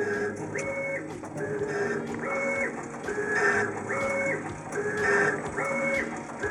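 Stepper motors on a homemade cast-iron CNC lathe driving the tool through repeated thread-cutting passes on a ten-start thread. The motor whine steps back and forth between a lower and a higher pitch about once a second as each pass feeds along and returns.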